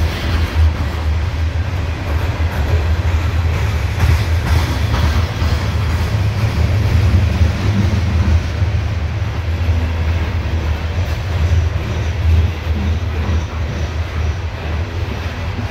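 Loaded CSX coal hopper cars rolling past close by: a steady, loud low rumble of steel wheels on the rails.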